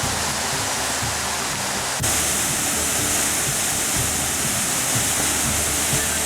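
Steady rush of falling water from a waterfall, with background music over it. About two seconds in, the water sound turns abruptly brighter and a little louder.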